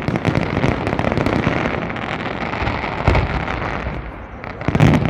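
Fireworks display: a dense, continuous barrage of bangs and crackling. It eases off briefly about four seconds in, then comes a loud burst just before the end.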